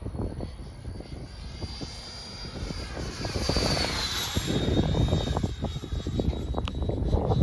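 Radio-controlled L-39 jet model flying past with a high whine that drops in pitch about four seconds in as it passes. Wind buffets the microphone with low rumbles and thumps.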